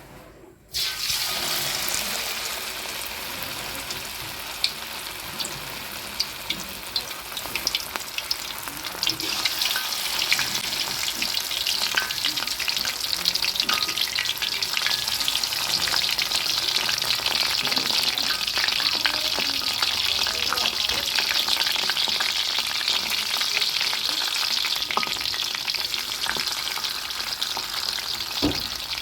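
Food frying in hot oil: a steady sizzle with many small crackles and pops. It starts suddenly about a second in and grows louder and denser around a third of the way through.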